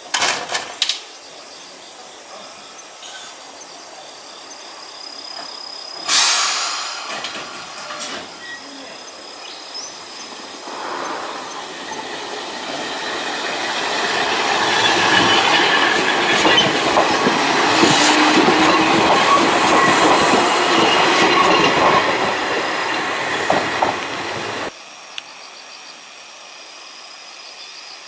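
Eizan Railway electric train running on the rails, its wheel and track noise building up from about ten seconds in, with wheels squealing, then cutting off suddenly near the end. A short loud burst of noise comes about six seconds in.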